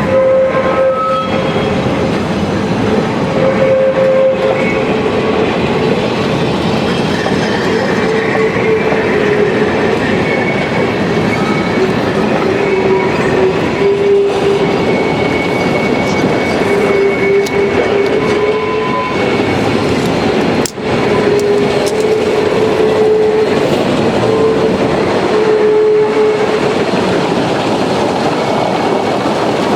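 Geared steam logging train running, a dense steady noise of exhaust and running gear overlaid with wavering squeals of wheel flanges, with a brief break about two-thirds through.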